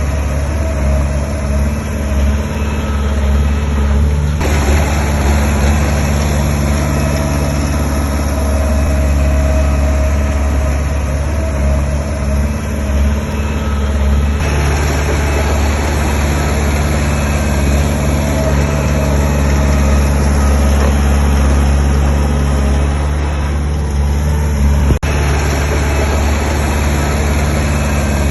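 Heavy diesel engine of earthmoving machinery running steadily with a strong low rumble; the sound grows fuller and noisier about four seconds in and again about fourteen seconds in. A single sharp click near the end.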